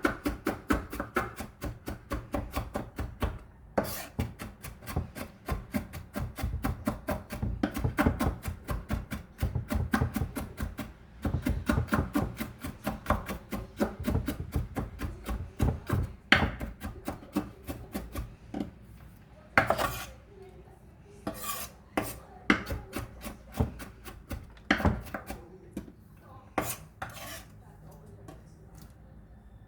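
Knife mincing vegetables on a cutting board: fast, steady chopping and scraping strokes that thin out to scattered single taps about two-thirds of the way through.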